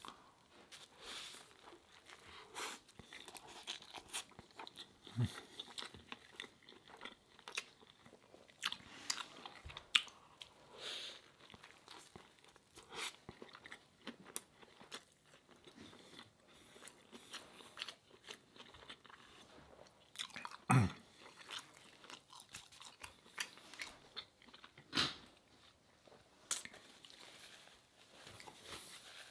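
Close-miked chewing of a ciabatta breakfast sandwich, starting with a bite: the crusty bread crunches amid irregular wet mouth clicks. A couple of louder mouth sounds stand out in the last third.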